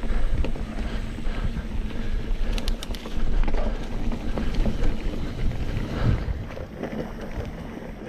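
Mountain bike riding over a dirt forest trail: a steady low rumble of wind on the microphone and tyres on the ground, with irregular knocks and rattles from the bike over bumps and a few sharp clicks about two and a half seconds in.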